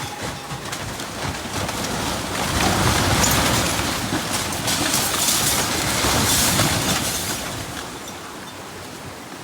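Strong storm wind gusting, with rattling, swelling to its loudest in the middle and easing off near the end.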